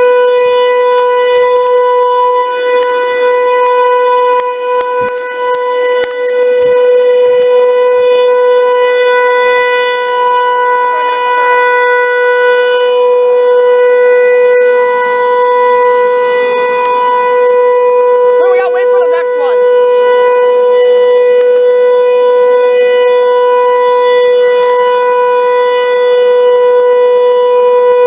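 Outdoor warning siren sounding a loud steady tone, held at one pitch throughout.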